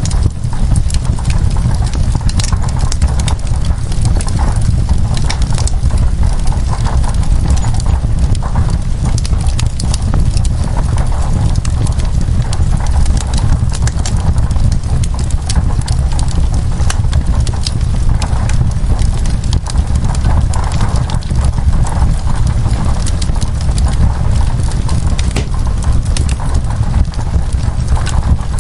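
Wood fire crackling in a fireplace, with many sharp irregular pops over a steady low rumble, and rain falling as a continuous hiss underneath.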